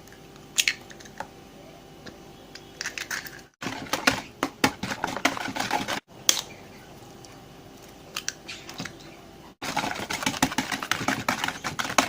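Chocolate brownie batter being stirred in a bowl as eggs are mixed in: a utensil clicks and scrapes rapidly against the bowl. The strokes come in two dense runs, with sparser taps between, and are broken by brief silent dropouts.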